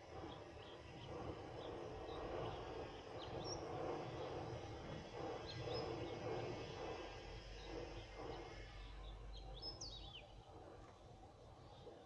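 Birds chirping in short calls over a steady background noise, with one louder sweeping call about ten seconds in.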